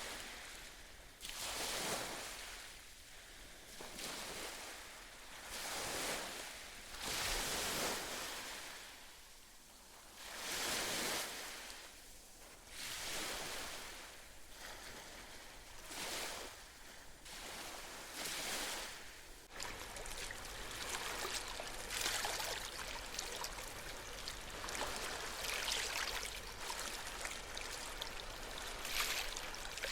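Small sea waves washing onto the shore, each surge swelling and fading every two or three seconds. About two-thirds of the way in the sound changes suddenly to a steadier, fizzing wash with a low hum beneath it.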